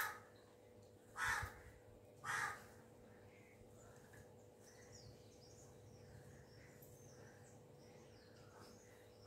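A bird calling outdoors: short harsh calls, three in the first two and a half seconds and another at the very end, over a faint steady hum, with faint high chirps of smaller birds in between.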